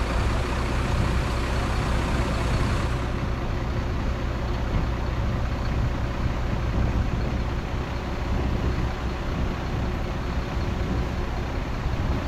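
Heavy diesel engine of earthmoving machinery, a bulldozer or dump truck, running steadily with a low rumble.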